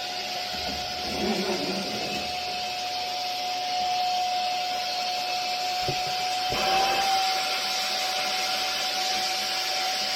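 Vacuum cleaner running steadily with a high motor whine and airflow hiss. A couple of low knocks come about six seconds in, and the whine rises slightly in pitch just after.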